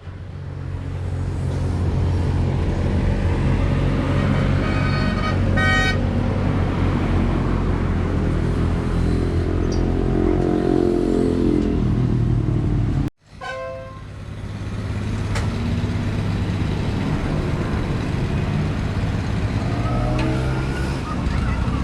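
A truck engine runs with a steady low drone, with short vehicle-horn toots about five to six seconds in and again about fourteen seconds in. The sound drops out abruptly for a moment about thirteen seconds in.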